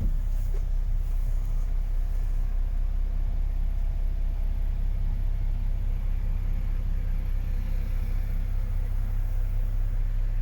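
MAN TGX 26.500 truck's 12.4-litre straight-six diesel running steadily, a constant deep rumble.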